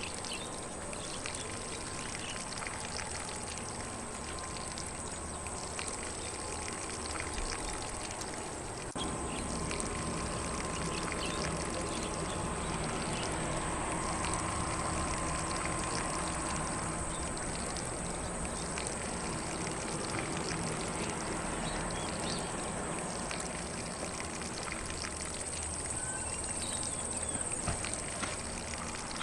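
Lawn sprinkler spraying water over grass, a steady hiss and patter of falling water that gets a little louder about nine seconds in, with faint birdsong in the distance.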